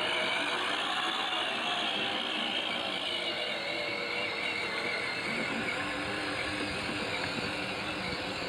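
Ride-on tractor's motor running steadily with a wavering whir as it is driven across a yard.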